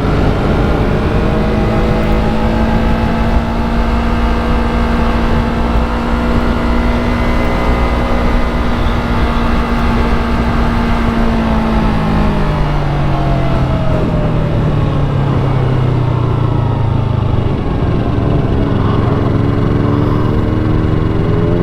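Yamaha R3 motorcycle's parallel-twin engine running at steady revs while riding, then the revs falling away about halfway through and settling lower, with wind rumble on the microphone.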